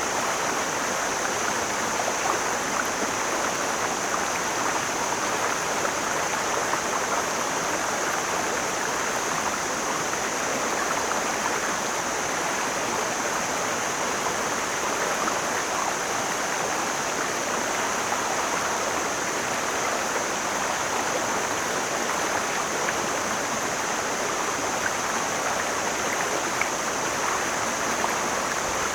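Mountain stream flowing steadily, a continuous even rush of water with no breaks or changes, topped by a thin steady high hiss.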